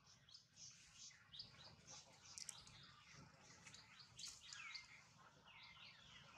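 Faint birds chirping: a run of many short, high chirps and quick falling whistles.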